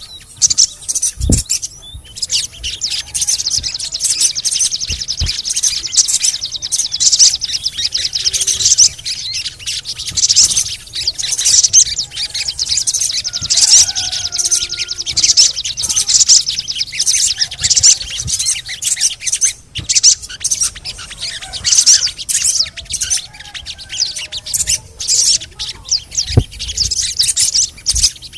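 Sogon bird song: a fast, unbroken stream of high, sharp chirps and trills with only brief gaps, played as a lure recording to get other sogon birds singing. A couple of short low thumps come about a second in and near the end.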